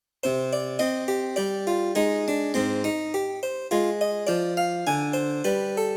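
Casio CDP-S360 digital piano playing one of its harpsichord presets: a piece in quick, evenly plucked notes over a moving bass line, starting a moment in.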